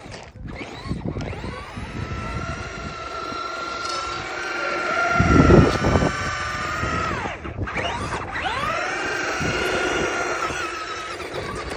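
Electric motors of radio-controlled cars whining, the pitch rising and falling with the throttle and dropping away briefly about half a second in and again past the middle. A loud, low rushing burst comes about five seconds in.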